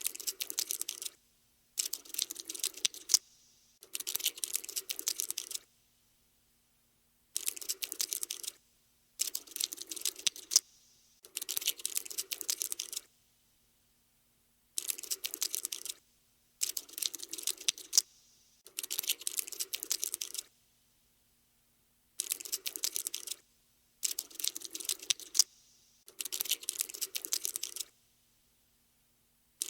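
Cockroach scuttling sound effect: rapid, dry skittering clicks in about a dozen bursts of one to two seconds, each cut off by a short silence.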